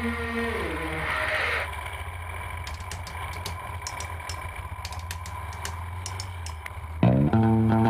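Harley-Davidson V-twin motorcycle engine idling with a steady low rumble, with light clicks in the middle. Music with a guitar starts near the end.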